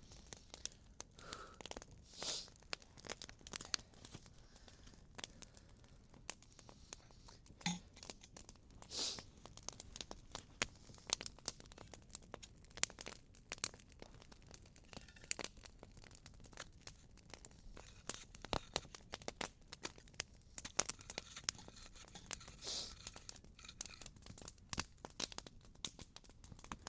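Small wood campfire crackling, with irregular sharp snaps and pops throughout and a few short louder hissing rushes.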